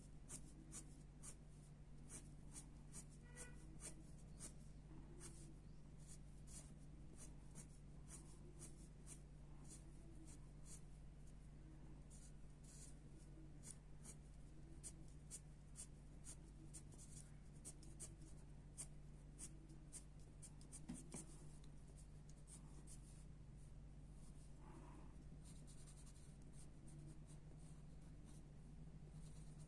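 Graphite pencil scratching on paper in many short, quick strokes, faint, over a steady low hum.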